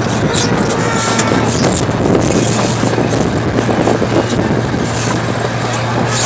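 Ride-on train running along its track: a steady rumble with a constant low hum and scattered clicks and clatter.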